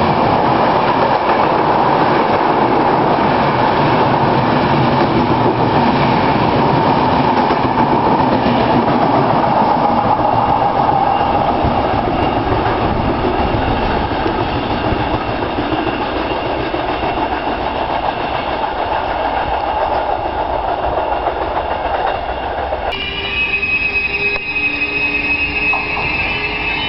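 Intercity passenger train passing through a station at speed: a loud, even rush of coaches and wheels on the rails that eases off after the train has gone by. About 23 seconds in, it cuts abruptly to another train approaching, with several steady high whining tones over a lower hum.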